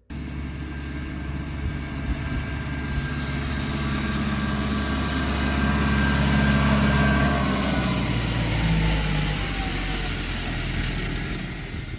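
Massey Ferguson 7495 tractor engine running steadily, growing louder through the first half, then a whine in it sliding down in pitch while the sound eases off near the end.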